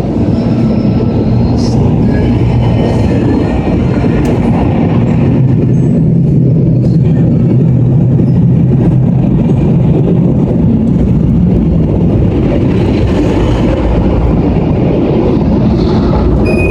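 Automatic car wash equipment running, a loud steady rumbling wash of machinery noise around the car, with faint radio music under it near the start.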